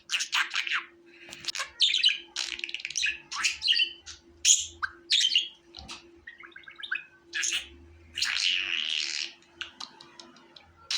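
Budgerigars chirping and warbling in a rapid run of short calls, with a longer, scratchy chattering call about eight seconds in. A faint steady hum runs underneath.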